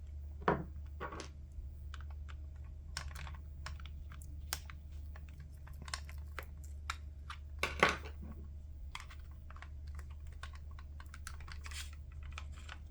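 Irregular small clicks and ticks of a precision screwdriver and fingers working tiny screws out of a plastic headset headband, with a louder knock about eight seconds in, over a steady low hum.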